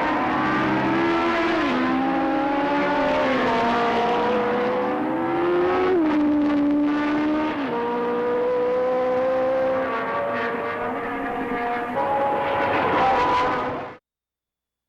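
1970s Formula 1 racing engines running at high revs. The pitch climbs and then drops sharply at gear changes, more than one engine at times. It cuts off suddenly near the end.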